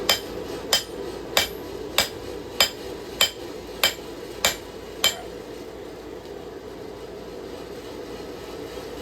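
A hand hammer striking steel on an anvil while forging a knife blade: nine evenly spaced ringing blows, a little under two a second, that stop about five seconds in. A steady low rushing noise runs underneath.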